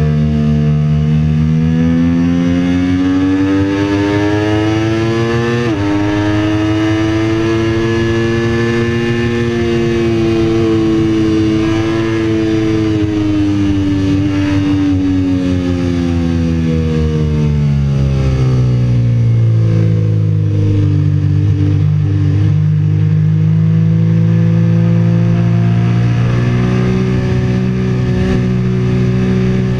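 Sport motorcycle's engine heard from on board at track speed: it revs up, shifts up about six seconds in with a sudden drop in pitch, then its pitch sinks slowly as the bike slows and holds low and steady for the last ten seconds. Wind noise runs underneath.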